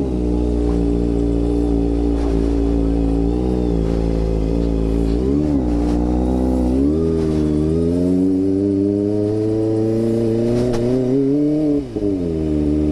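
Kawasaki ZX-25R's 250 cc inline-four engine pulling under way: the revs climb slowly and twice fall away sharply at a gear change, the second time with a brief dip in loudness near the end.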